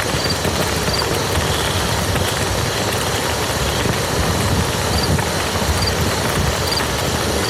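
Steady, heavy rain falling on a muddy field: a dense, even patter of drops with no let-up.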